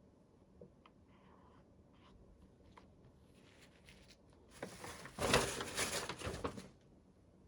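Toy packaging being handled: a few small clicks and taps, then about two seconds of rustling and crinkling near the end.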